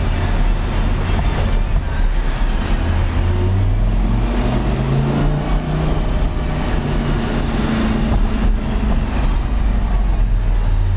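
Lamborghini Gallardo's V10 engine heard from inside the cabin while driving, a steady low engine sound with road noise; the revs climb about three to five seconds in, then hold steady.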